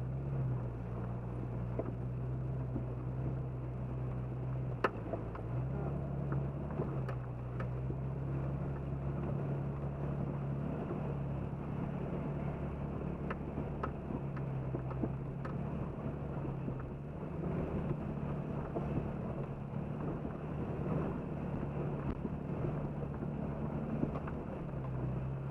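Jeep Cherokee XJ engine running steadily at low speed under a constant rushing noise, with a few light clicks and knocks.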